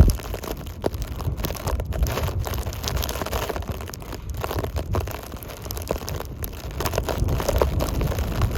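Blizzard wind gusting against the microphone: an uneven low rumble with scattered crackles.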